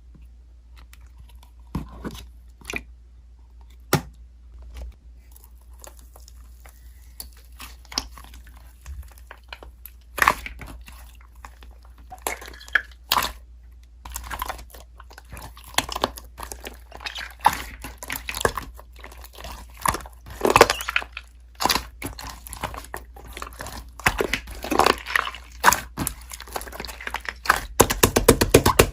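Slime being squished and pressed by hand, giving irregular sticky clicks and crackles. Sparse at first, busier from about a third of the way in, with a quick run of pops near the end.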